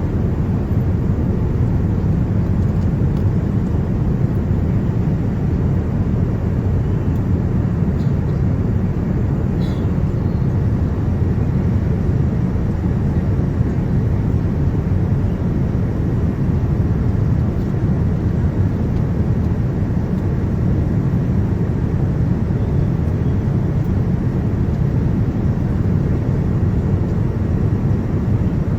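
Steady low roar of a Boeing 787-9 airliner's engines and rushing air, holding even without any rise or fall.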